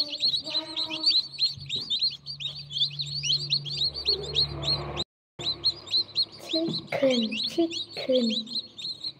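A brood of newly hatched chicks peeping continuously, many rapid high, falling peeps overlapping. A low steady hum runs underneath for a few seconds, and the sound cuts out completely for a moment about five seconds in.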